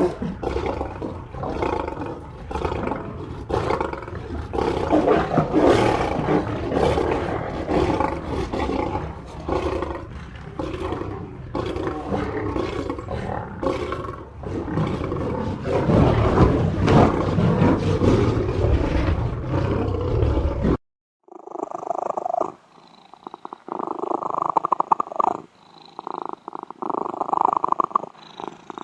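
A big cat roaring and growling, loud and continuous with rising and falling bursts. About 21 s in, it cuts off suddenly and a softer, pulsing animal sound follows.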